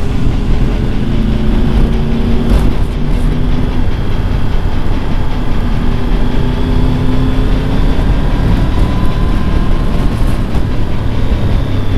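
Wind rushing over the microphone of a motorcycle on the move, with the engine note of a Triumph Tiger 1200 GT Pro's three-cylinder engine underneath, rising slowly twice as the bike gathers speed.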